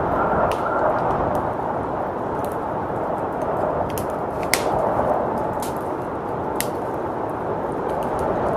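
Wood fire crackling, with a scattered handful of sharp pops, over a steady rush of blizzard wind.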